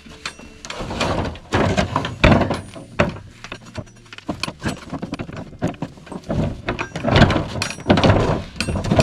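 Irregular wooden knocks, thuds and scraping as boards of a door being cut out are worked and knocked loose by hand.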